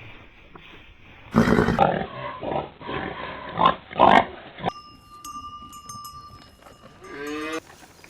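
Pigs grunting and squealing in a run of short, rough, loud calls. After a cut, a faint steady high tone follows, and a brief pitched animal call comes near the end.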